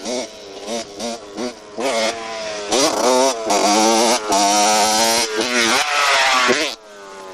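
Motorcycle engine revving: a series of short throttle blips, each rising in pitch, then held at high revs for a few seconds before the throttle is shut near the end and it falls back to a lower, quieter running note.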